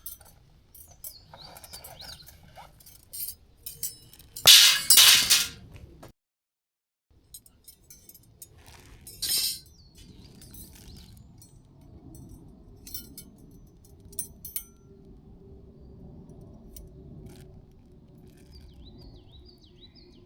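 Camp gear being handled, with scattered clinks and knocks and two loud rustling bursts about four and a half and nine seconds in. Birds chirp faintly near the end.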